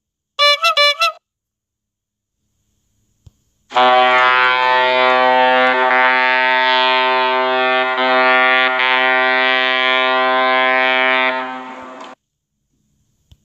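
A brief burst of quick pulsing beeps, then a loud, steady brass-like horn blast held on one pitch for about eight seconds, trailing off at the end.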